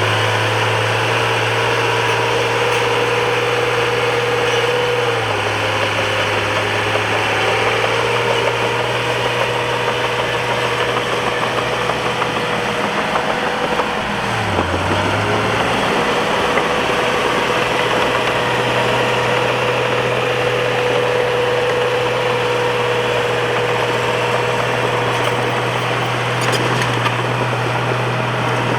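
Bulldozer's diesel engine running steadily, its pitch dipping and then recovering about five seconds in and again around the middle, as engine speed changes under load.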